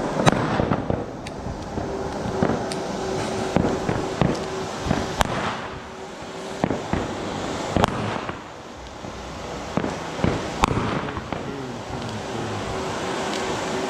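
New Year's Eve fireworks and firecrackers going off all around: a continuous crackle broken by many sharp bangs at irregular intervals, some much louder than others.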